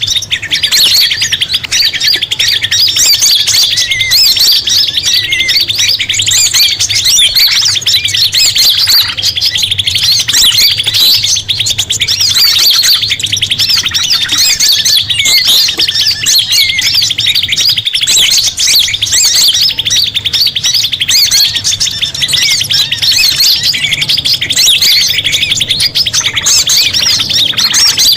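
Many small songbirds chirping, trilling and calling at once in a dense, unbroken chorus. It is a bird-lure (pikat) recording meant to draw in small birds such as prinias and sunbirds, with a fast high trill running under the mix most of the time.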